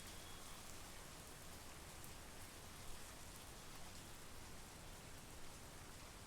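Steady monsoon rain, a faint even hiss flecked with the ticks of single drops.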